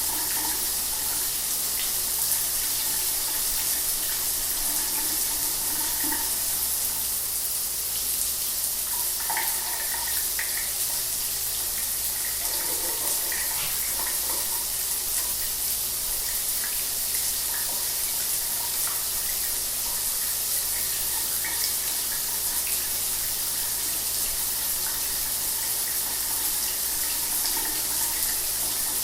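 Shower water running steadily, a continuous hiss of spray with small splashing flecks, over a faint low hum.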